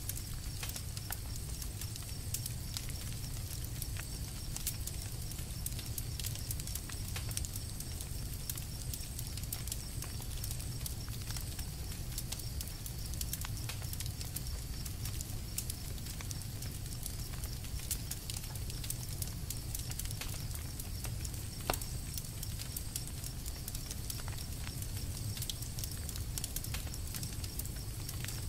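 Campfire crackling: a steady scatter of small snaps and pops over a low, even rumble, with one sharper pop about three-quarters of the way through.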